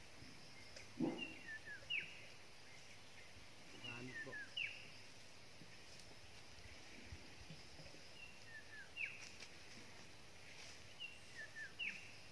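A bird repeats a short song phrase of quick falling notes about four times, over faint outdoor background noise. Two soft thumps or rustles come about one and four seconds in.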